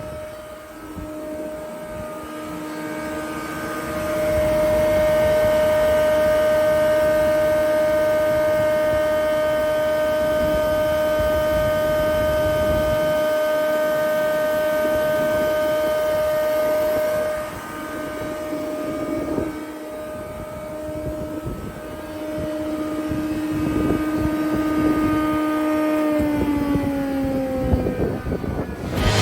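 Jaroma DSMD-63 thickness planer, 7.5 kW motor driving a four-knife cutterhead, running with a steady high whine. It gets louder during two long stretches, the first from about 4 s to 17 s, the second about 22 s in, as boards are planed. Near the end the whine falls in pitch as the cutterhead slows.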